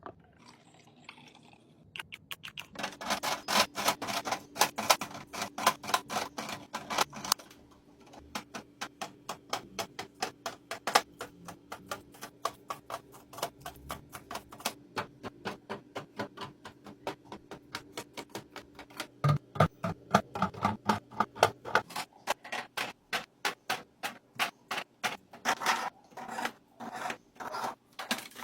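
A quick, even run of light clicks and taps, about three or four a second, from kitchen items and containers being handled. It starts about two seconds in.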